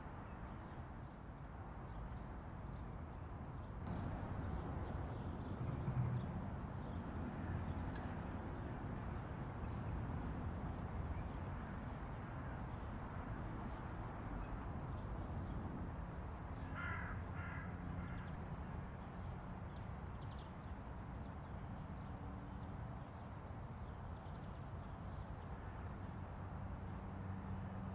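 A crow caws three times in quick succession over a low, steady rumble.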